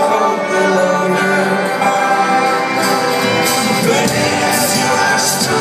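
A folk-rock band playing live, with several instruments and voices sounding together.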